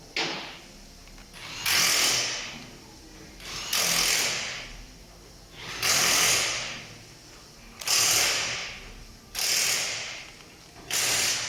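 Repeated rasping, scraping strokes from hand work on an RC truck's plastic and metal parts: seven strokes, each about a second long, coming about every two seconds.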